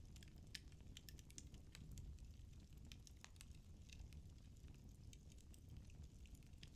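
Firewood burning in a fireplace, giving faint, irregular crackles and small pops over a low, steady rumble.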